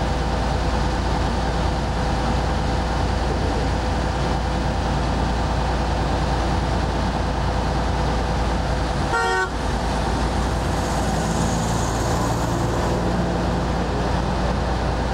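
Steady road-vehicle noise: a low rumble with a held tone over it, briefly interrupted about nine seconds in.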